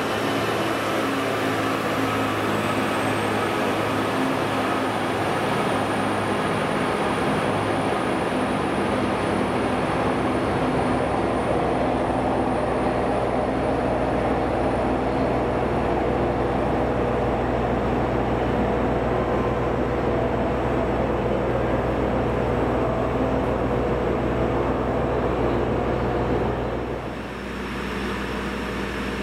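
A train at a station, running steadily with a machinery hum and a faint high whine over the middle part. The sound drops and changes abruptly near the end.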